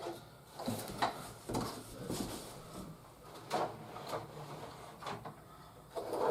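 Hard plastic toy Chinook helicopter being handled: irregular clicks, knocks and rattles of cheap, light plastic parts.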